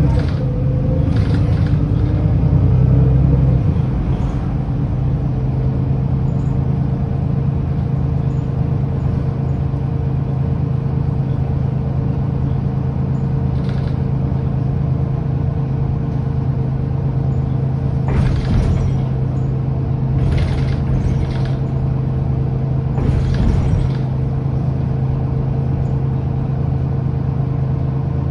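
Mercedes-Benz O530 Citaro bus's OM906hLA six-cylinder diesel, louder and changing for the first few seconds, then running at a steady, even note. A few short noise bursts break in about eighteen seconds in and between about twenty and twenty-four seconds.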